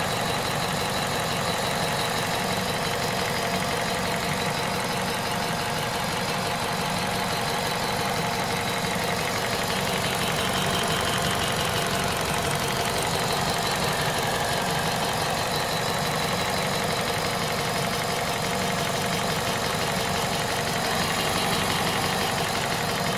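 Warm 1.6 VTi 120 four-cylinder petrol engine idling steadily, at 98,500 km.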